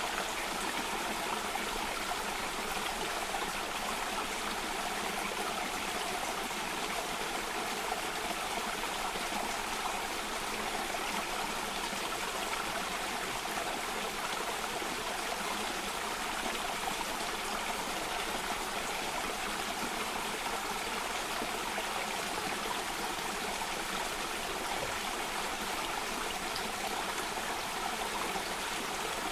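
Steady rushing of a stream or small waterfall over rocks, an even, unbroken wash of water sound.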